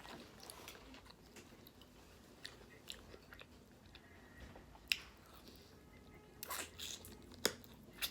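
A person chewing food close to the microphone: soft, scattered mouth clicks and smacks, with a couple of sharper clicks about five and seven and a half seconds in.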